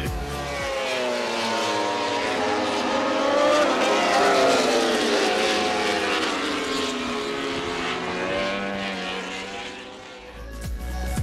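Racing motorcycle engines passing at speed, their pitch rising and falling as they go by, loudest around the middle.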